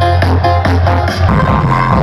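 Electronic dance music played loud through a large parade sound system, with a heavy steady bass and a regular pulse; a little past halfway the bass drops away and the track changes.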